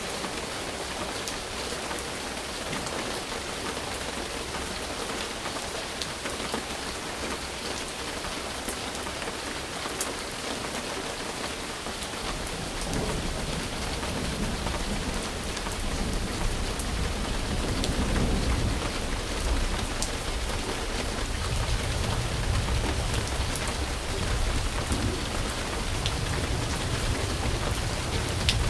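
Steady rain falling, with sharp drops ticking now and then. About twelve seconds in, a deep rumble of thunder rolls in, swells for several seconds and keeps rumbling under the rain.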